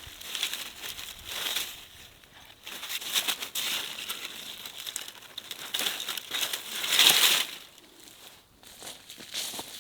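Irregular crinkling and rustling of something being handled, loudest about seven seconds in.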